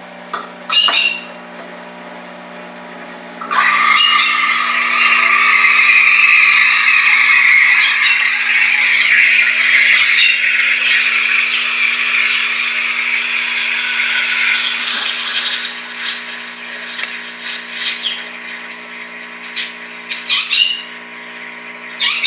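Rocket Appartamento espresso machine's steam wand hissing into a jug of milk. The steady hiss starts about three and a half seconds in and lasts around ten seconds, then breaks into a run of short, sharp spurts as the milk nears temperature. A faint low hum runs under it.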